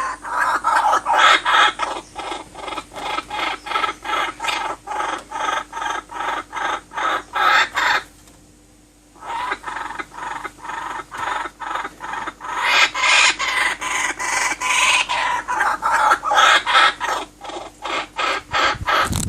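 A bird giving fast, evenly repeated short calls, several a second, with a break of about a second partway through.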